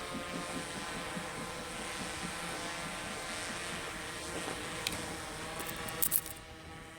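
DJI F650 hexacopter's motors and propellers humming steadily, with wind noise. A low rhythmic pulsing underneath fades away over the first few seconds, and a few sharp clicks come near the end as the sound briefly dips.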